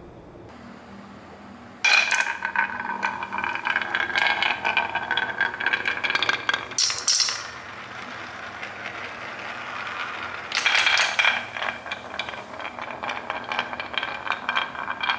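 Small hard toy pieces rattling and clinking as they roll and clatter, in two spells: one starting about two seconds in and another about ten seconds in.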